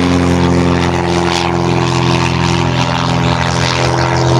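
Propeller airplane engine droning loudly at a steady pitch.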